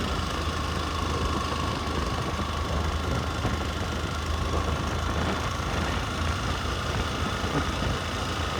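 Motorcycle engine running steadily while riding, with a constant rush of road and wind noise.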